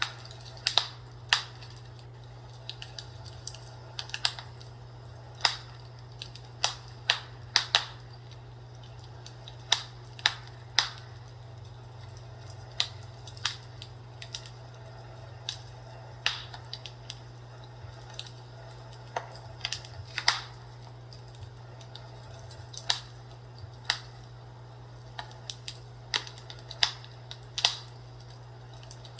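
Fireplace crackling: irregular sharp pops and snaps, a few every second and some much louder than the rest, over a steady low hum.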